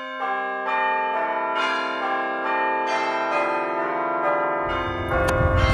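Bell tones struck one after another, each left to ring on, building into a sustained chord. A low rumble joins about four and a half seconds in.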